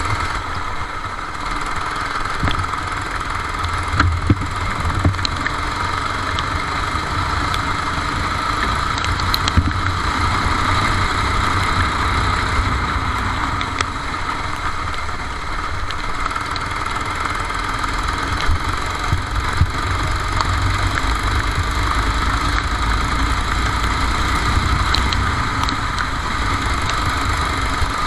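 Racing kart engine running steadily, heard onboard, with a strong low rumble and a few brief knocks.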